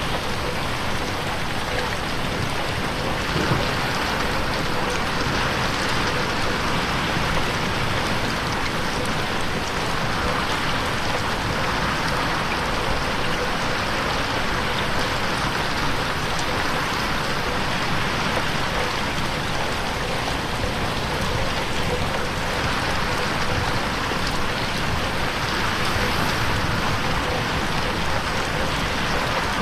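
Steady rain pattering on a window pane, an even hiss of drops.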